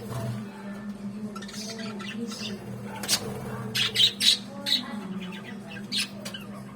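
Many budgerigars chirping and squawking with short, sharp calls, loudest around three to four seconds in, over a steady low hum.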